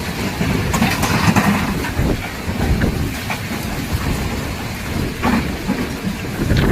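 Storm noise: strong wind and heavy rain rushing steadily, with a few scattered knocks.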